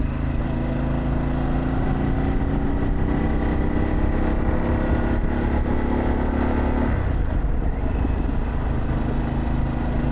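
Harley-Davidson Pan America's 1250 V-twin running through a Vance & Hines exhaust while riding, its pitch climbing slowly. The engine note drops about seven seconds in and picks up again lower a second later, with wind noise underneath.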